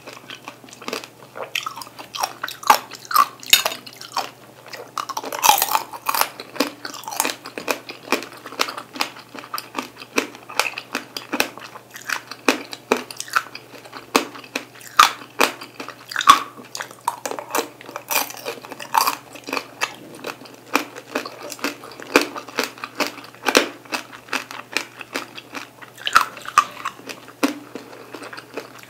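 Tanghulu being bitten and chewed: the hard sugar glaze on candied cherry tomatoes and mandarins cracks in many sharp crunches, mixed with wet chewing.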